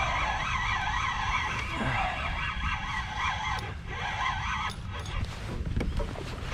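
Fishing reel whirring with a wavering whine while a hooked bluefish is fought on a popper; the whine fades after about three and a half seconds. A low rumble runs underneath, with a few sharp clicks or knocks later on.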